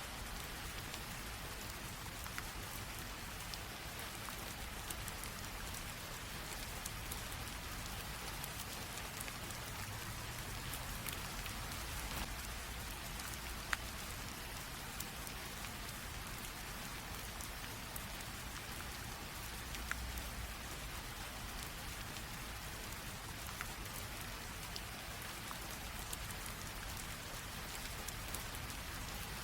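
Light steady rain, a soft even hiss with scattered individual drops ticking on a surface, one sharper drop about fourteen seconds in.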